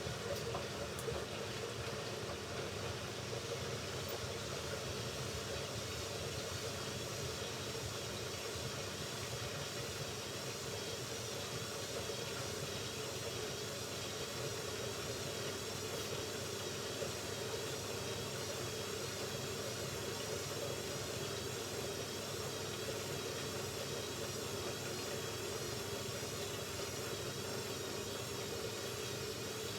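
Hoover Ecologic Computer Washer 1300 washing machine running steadily on its rinse and spin programme, its motor and drum making a continuous even sound. A faint high whine wavers slightly in pitch from about halfway through.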